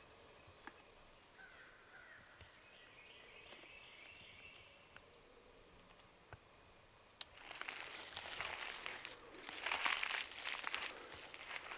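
Quiet woods with faint calls of small birds, then about seven seconds in a click and a loud, crinkling, crunching rustle that goes on in irregular surges, like dry leaf litter being stepped through or handled close to the microphone.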